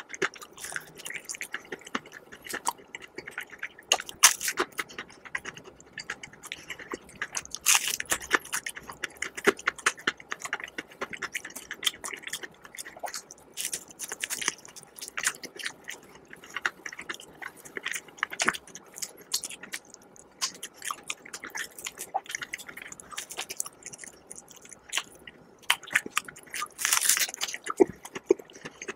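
Close-up eating sounds: a person biting and chewing crispy fried chicken, the crunchy breading crackling with wet mouth sounds. Several louder crunches stand out, the loudest about four seconds in and near the end.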